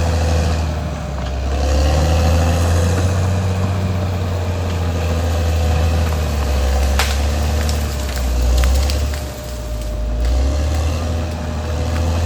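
Caterpillar D6R XL bulldozer's diesel engine running with a deep, steady drone that eases off briefly twice. A few sharp knocks come in the second half.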